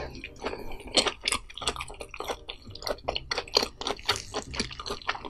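Close-miked wet chewing of a very large mouthful of food, a rapid irregular run of wet mouth clicks.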